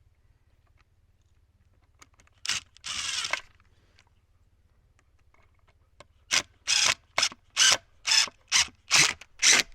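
Two short scrapes, then from about six seconds in a steady run of rasping strokes, roughly two a second.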